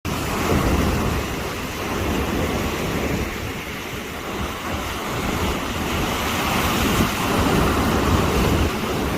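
Sea waves surging and washing on the shore with strong wind buffeting the microphone, a continuous rushing noise with a heavy low rumble that swells and eases with the waves.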